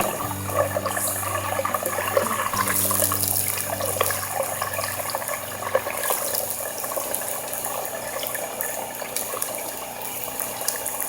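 Homemade french fries sizzling and crackling in hot oil over an open campfire, a steady hiss with many small pops.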